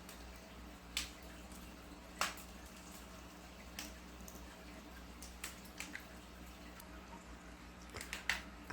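A pet bird picking through a cup of seeds: scattered sharp little clicks, about seven spread over several seconds, over a faint steady low hum.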